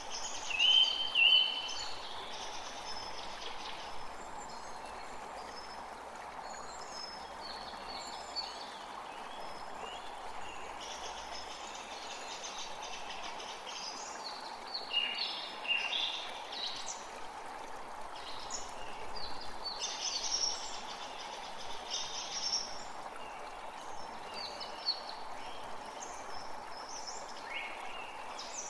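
Forest creek running steadily, with songbirds calling and singing over it throughout. The loudest call comes about a second in.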